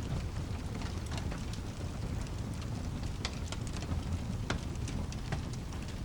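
Steady rain hiss over a low, continuous rumble, with a fireplace's sharp, irregular crackles and pops scattered through; two louder pops come about three and four and a half seconds in.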